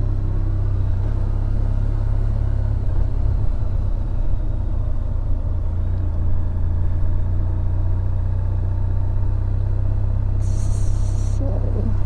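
Honda V4 motorcycle engine running steadily with a deep low hum. A brief hiss cuts in for about a second near the end.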